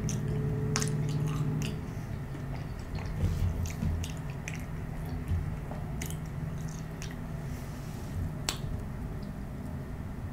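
Close-miked chewing of McDonald's fast food, with short wet mouth clicks and smacks, and the squish of a chicken nugget being dipped in hot mustard sauce.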